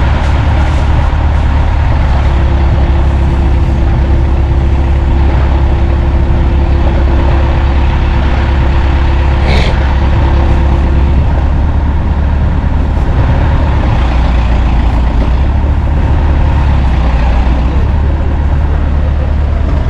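Truck engine running steadily at idle, loud throughout, with a thin steady whine from about two to eleven seconds in and a single metallic clank about halfway through.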